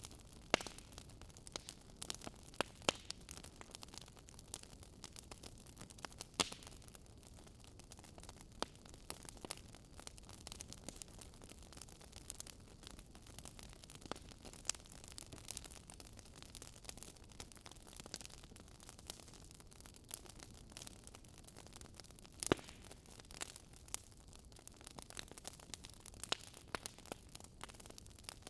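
Wood fire crackling: a soft steady hiss with irregular sharp pops and snaps, a few louder ones standing out, the loudest about two-thirds of the way through.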